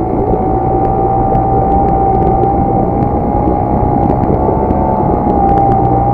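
HDX T 2.6 CBMS two-stroke outboard motor running steadily during its break-in, its engine note holding nearly level in pitch.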